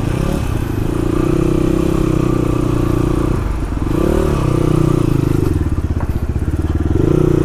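Motorcycle engine running at steady revs, dipping briefly and picking up again about three and a half seconds in.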